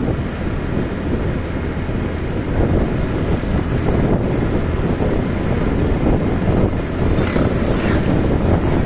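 Wind buffeting the microphone of a moving motorcycle, with the engine and road noise running underneath as a steady low rumble. A brief higher hiss comes about seven seconds in.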